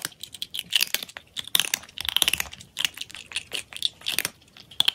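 Crunchy food being bitten and chewed: repeated bursts of crisp crunching and crackling, coming in irregular clusters.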